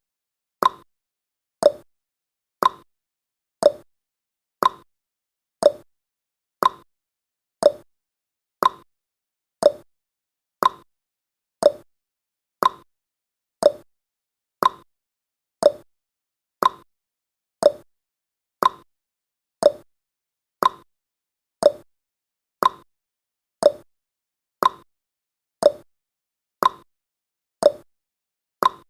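Clock-ticking sound effect of a countdown timer, one short tick a second, each tick dying away quickly, alternating between a higher and a lower tick like a tick-tock.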